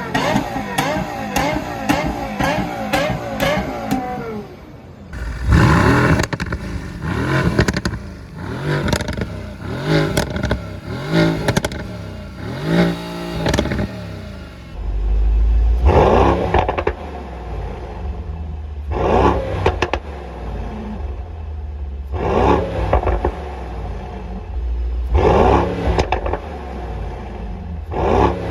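High-performance car engines revved repeatedly through the exhaust, each rev climbing and falling back in pitch, with sharp cracks in between.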